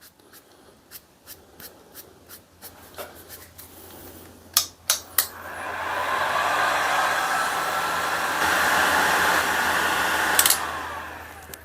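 Heat gun switched on and blowing steadily for about five seconds to dry tannin solution on a wooden handle, then switched off, its fan whine falling away. A few clicks and knocks come before it starts.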